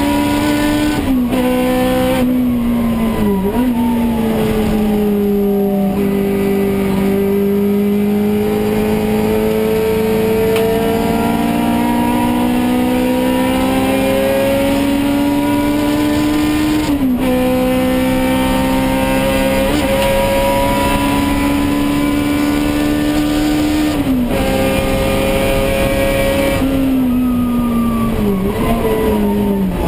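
Toyota AE86 Corolla race car's four-cylinder engine heard from inside the cockpit, driven hard through the gears. The pitch climbs slowly under power and drops sharply at two upshifts, about halfway and two-thirds of the way through, with quick throttle blips on downshifts near the start and again near the end.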